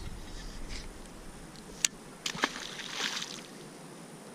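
Faint sloshing of river water, with two sharp clicks a little over half a second apart near the middle.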